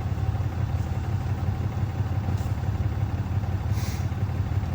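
A vehicle engine idling steadily, with a brief hiss a little before the end.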